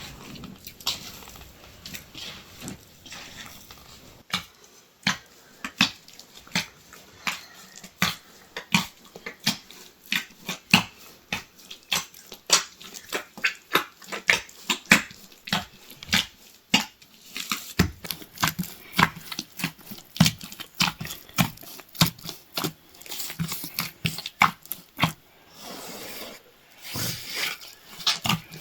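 Repeated short slaps or knocks at an irregular one to two a second, coming faster in the second half.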